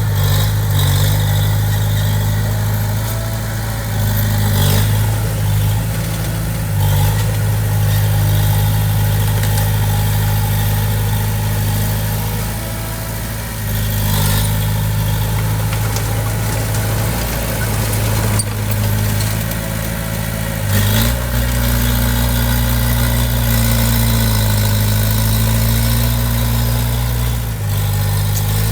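Diesel engine of heavy earthmoving equipment running steadily, its note shifting lower and heavier about 21 seconds in, with a few sharp knocks along the way.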